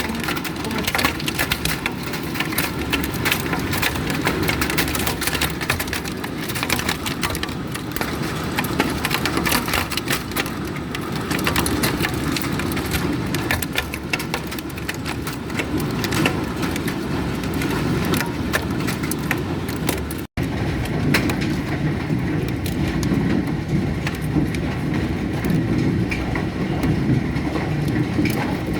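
Hailstones pelting down, a dense, continuous clatter of countless small impacts with a low rumble beneath. The sound cuts out for an instant about twenty seconds in, then goes on.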